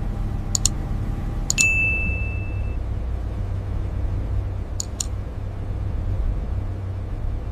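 Steady low rumble with pairs of short electronic clicks three times. The second pair sets off a high ringing ping that lasts about a second, a sonar-style blip.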